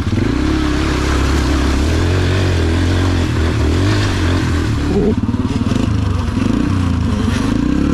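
Small dirt bike engine running, its pitch wavering up and down as it is revved and eased off.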